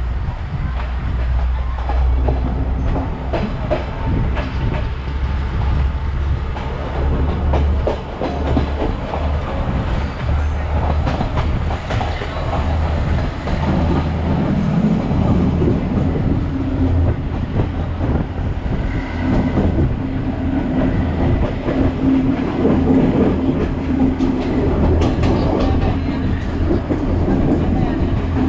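A Sri Lankan train running along the track: a continuous low rumble from the wheels with repeated clicks over the rail joints. A steady hum joins about halfway through.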